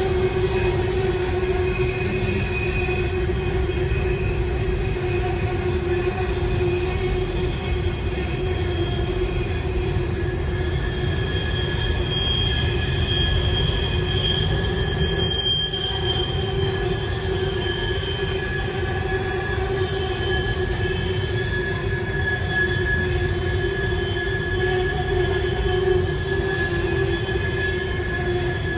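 Norfolk Southern freight train of autoracks and hoppers rolling past with a continuous low rumble. Its wheels squeal steadily in several held pitches as the flanges grind against the rail on the curve.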